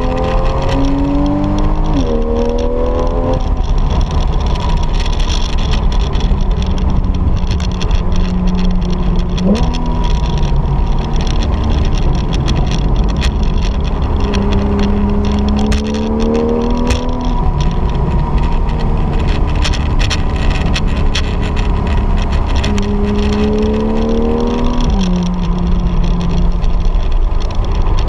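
Porsche 911 GTS flat-six heard from inside the cabin. Its note climbs several times under acceleration, with abrupt jumps in pitch at the gear changes, over steady road and tyre noise.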